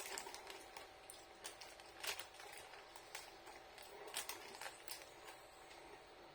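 Faint, irregular crunching and small clicks of someone chewing a crunchy biscuit.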